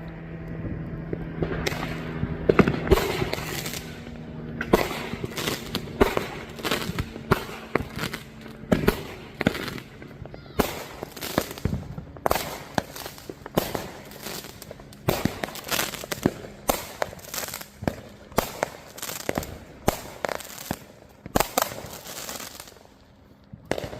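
Fireworks going off in a long barrage of sharp cracks and bangs, several a second, thinning out near the end, with a low steady hum under the first half.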